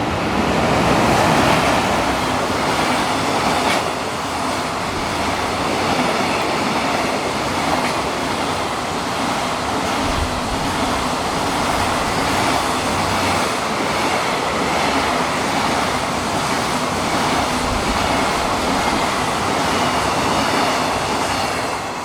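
Freight train passing through the station at speed: a long, steady rush of wheels on rail and rumbling wagons, loudest about a second in, falling away at the end as the train clears.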